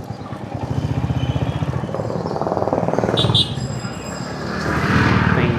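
Motorcycle engine running with an even chugging beat as the bike is ridden, getting louder in stretches, with a brief high squeak about three seconds in.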